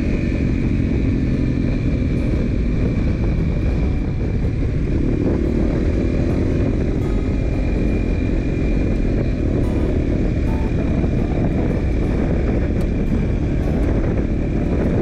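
Yamaha XT350's single-cylinder four-stroke engine running steadily while the motorcycle cruises along a road.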